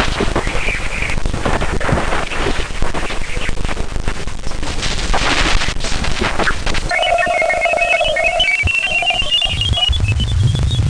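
Ganymede's magnetosphere, recorded by a spacecraft as radio or plasma waves and converted to audio. Crackling static full of rapid clicks gives way, about seven seconds in, to warbling whistle tones that slowly rise in pitch, and a low hum comes in near the end.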